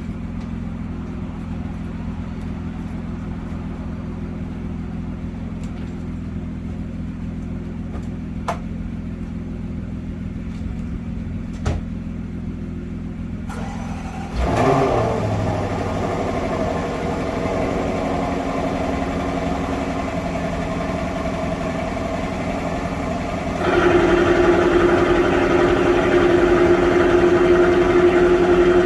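A steady low hum with a couple of clicks, then about halfway through the supercharged 5.0-litre V8 of an Overfinch Range Rover Sport cranks and fires from cold, with a short rise in pitch. It settles into a steady idle that becomes louder near the end.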